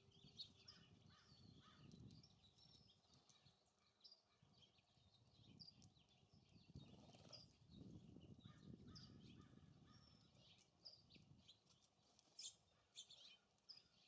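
Faint, scattered chirps and short calls of small songbirds, over gusts of wind on the microphone that swell and fade.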